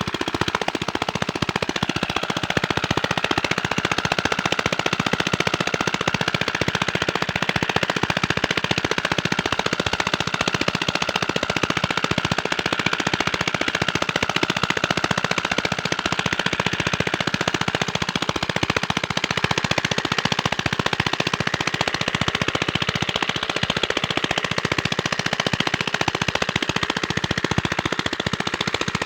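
Single-cylinder Chinese diesel engine of the kind used for village water pumping, running steadily with a rapid, even knock.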